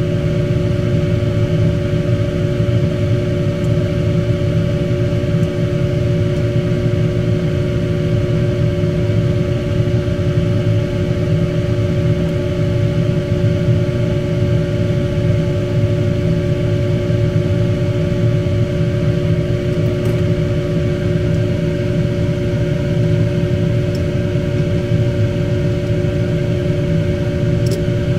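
Steady machine hum and whir: a low rumble with two steady tones above it, unchanging in level, and a few faint ticks near the end.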